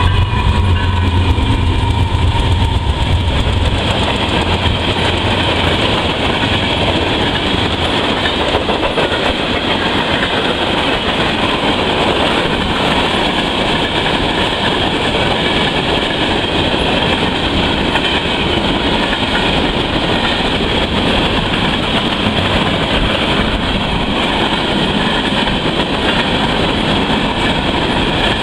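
BNSF freight train passing close by. The lead GE ES44C4 and C44-9W diesel locomotives give a heavy low rumble for the first few seconds. Then comes a steady rumble and clatter of tank cars, covered hoppers and boxcars rolling past on the rails.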